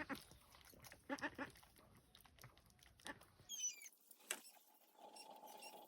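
Faint rural farmyard ambience: a few short animal calls about a second in, then high chirps like birdsong near the middle, and a steady low hum in the last second.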